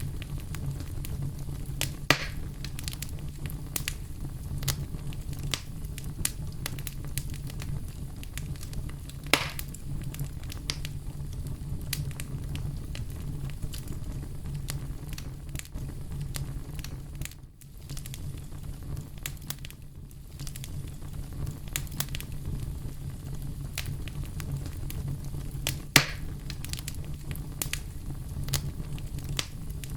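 Campfire burning with a steady low rumble and frequent small crackles, broken by three sharper pops, the loudest near the end.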